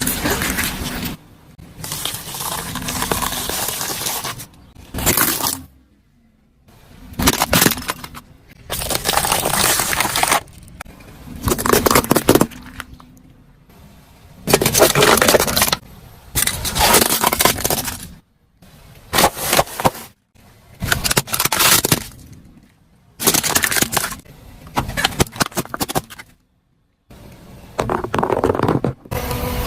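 Objects crunching, cracking and breaking as they are crushed, in about a dozen separate bursts of one to two seconds each with short gaps between them.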